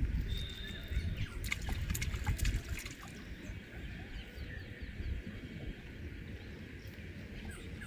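Outdoor ambience by the water: a low rumble of wind on the microphone, a few small splashes and clicks in the first few seconds, and faint bird chirps.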